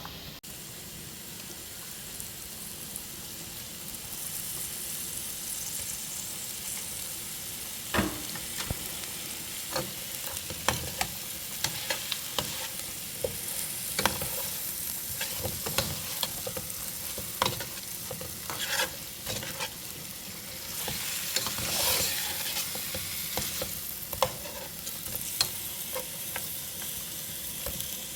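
Food sizzling as it fries in a pot, stirred with a utensil that clicks and scrapes against the metal. The sizzle grows louder a few seconds in, and irregular sharp clicks of the utensil start about a third of the way through.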